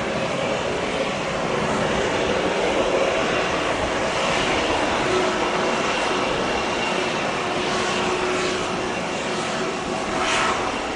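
Jet airliner engines running steadily, a broad rush with faint steady whining tones, from a Boeing 777-300ER.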